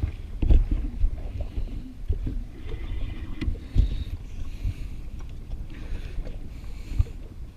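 Water slapping against the hull of a drifting jet ski, with irregular low thumps and wind on the microphone.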